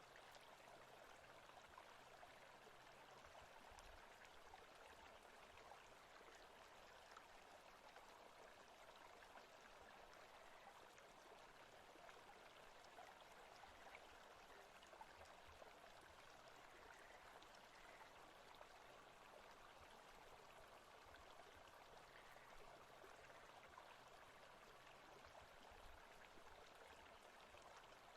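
Faint, steady forest ambience: an even rushing like a flowing stream.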